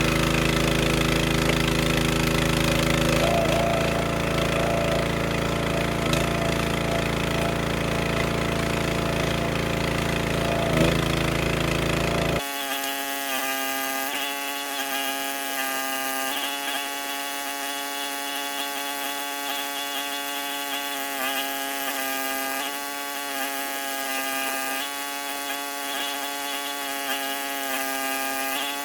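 Wood splitter's engine running steadily. About twelve seconds in the sound changes abruptly: the deep rumble drops out and a thinner, steady hum remains, its pitch sagging briefly now and then.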